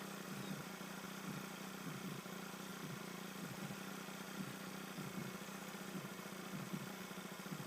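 A Honda Click 125i scooter's single-cylinder engine idling steadily.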